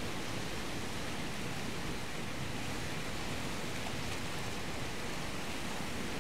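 Steady rushing noise of surf breaking along the shore, even and unbroken.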